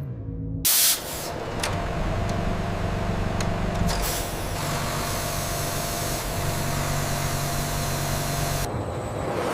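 Industrial machinery noise: a short loud hiss about half a second in, then a steady hissing noise over a low hum that stops sharply near the end.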